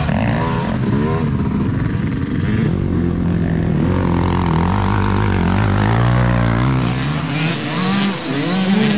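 Several motocross motorcycle engines revving, their pitch rising and falling as the bikes accelerate and shift.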